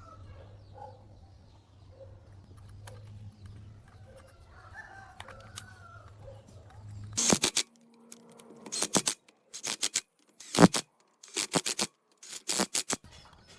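Faint chickens calling, a rooster among them, over a low hum. From about seven seconds in, loud sharp knocks come in short clusters about a second apart, the loudest sounds here.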